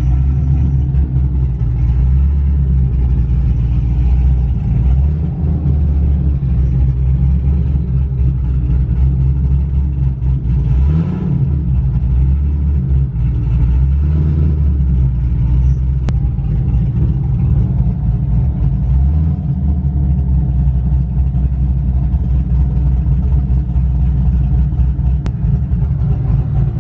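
A car engine running steadily with a low rumble, revved briefly about eleven seconds in.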